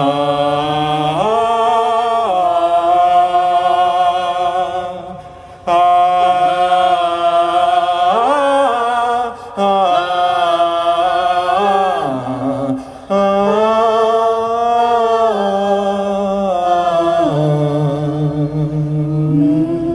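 A man singing wordless, long held "ah" notes with a wavering vibrato, in phrases several seconds long with short breaths between them, and a lower steady note underneath in places.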